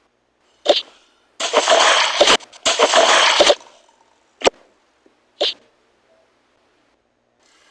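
Splashing noises: a short splash, then a longer broken stretch of splashing lasting about two seconds, then two more short splashes.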